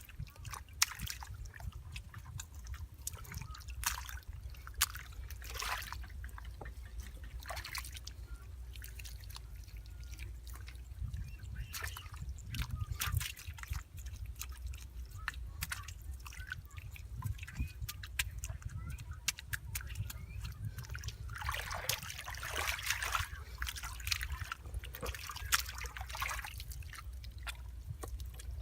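Water sloshing and trickling, with many irregular small splashes and drips, busier for a few seconds near the end, over a steady low rumble.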